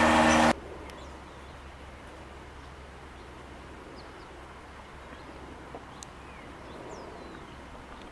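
A loud, steady mechanical hum cuts off suddenly about half a second in. It gives way to faint open-air background with a few brief, thin bird chirps.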